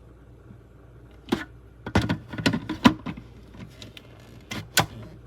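Sharp plastic-and-glass clicks and knocks of a blender being handled, in quick clusters, over a low steady hum; no motor runs.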